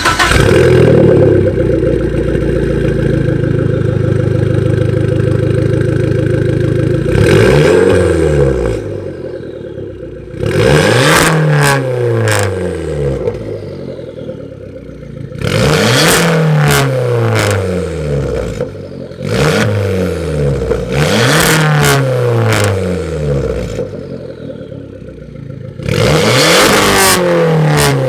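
Abarth 500's 1.4 turbo four-cylinder through a decatted, straight-piped Bombardone exhaust. It is held at steady revs for about seven seconds, then revved hard about five times, each rev falling away with sharp cracks. Extremely loud.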